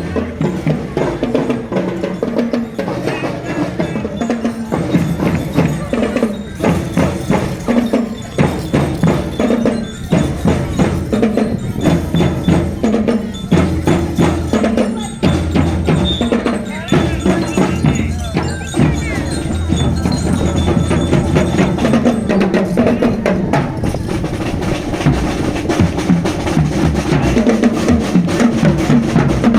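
Marching drum band playing without a break: a steady run of drum strokes with a pitched melody over them.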